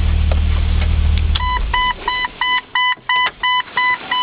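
1999 Jeep Cherokee's 4.0-litre straight-six idling, then shut off about a second and a half in. As it dies, the Jeep's electronic warning chime starts beeping rapidly, about three beeps a second.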